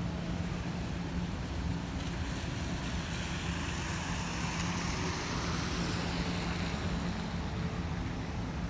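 Road traffic on a wet street: tyres hissing on the wet surface over a steady low engine hum, with one vehicle's hiss swelling and fading as it passes in the middle.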